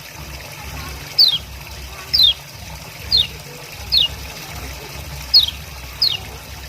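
Kecial kuning, a white-eye, calling a sharp, falling 'ciak' chirp about once a second, six times, over a steady trickle of running water.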